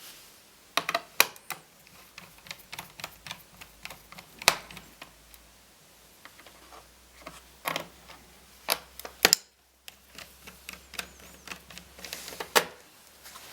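Irregular small clicks and taps of a screwdriver and screws against a laptop's plastic and metal chassis as the motherboard screws are removed, with a few sharper, louder clicks among them.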